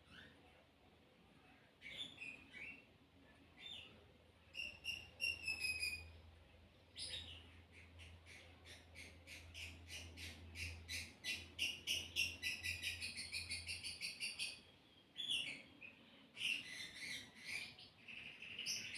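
Small birds chirping and twittering, faint, with scattered single chirps and a fast, dense run of chirps in the middle.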